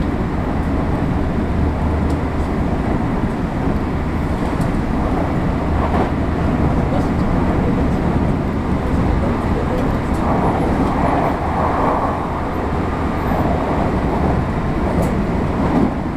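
Running noise of a JR West 225 series 0 subseries electric multiple unit at speed, heard from inside the passenger car: a steady rumble of wheels on rail with a constant low drone.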